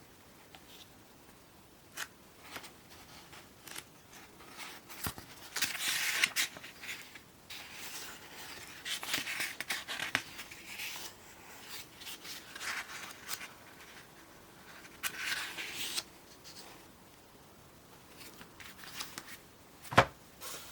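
Pages of a small paper aircraft-spotter's handbook being turned and handled: intermittent paper rustles with a few light taps.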